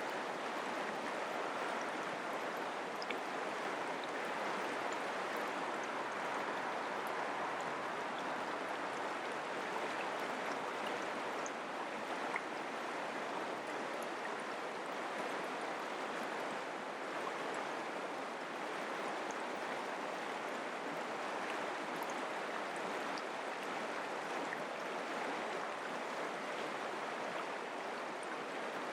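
Mountain creek water running and babbling over rocks, a steady rushing.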